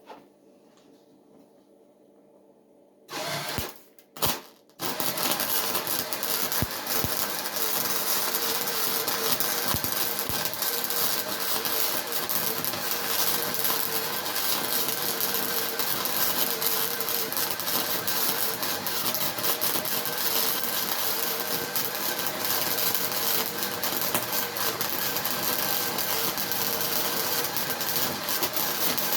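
Electric welding arc: two short strikes about three and four seconds in, then an arc held steadily for the rest, a continuous crackle over a faint steady hum.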